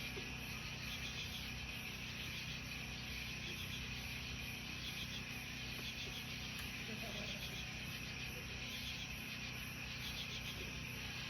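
Night insects, crickets among them, chirping in a steady chorus, with a very high pulsing call repeating about twice a second.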